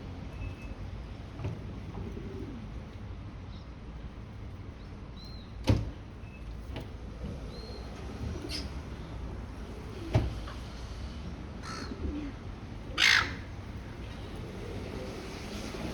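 A silver gull gives one short harsh call near the end, over a steady outdoor background, with two sharp knocks earlier on.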